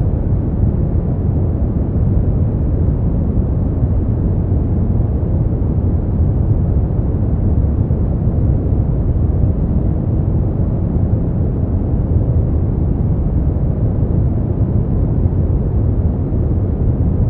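Steady, unbroken synthetic noise for sleep, sold as white noise but deep and muffled: its weight sits in the low end and nothing is heard above about 4 kHz.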